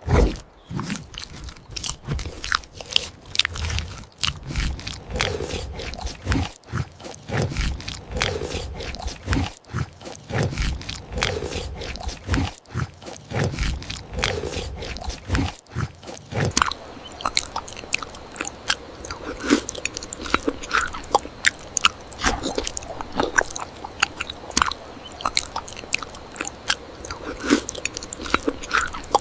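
Close-miked mukbang eating sounds: biting and chewing food, with many sharp clicks packed close together. About halfway through the sound turns thinner, with less low end.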